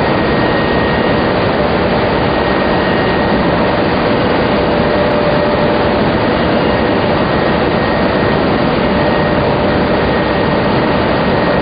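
Tobacco lamina flash dryer machinery running with a steady, even noise and a faint steady high whine.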